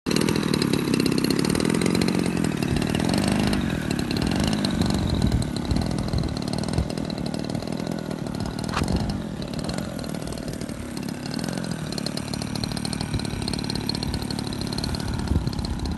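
DLE 20cc single-cylinder two-stroke gasoline engine of a radio-controlled model airplane running, louder for the first few seconds and then settling a little lower.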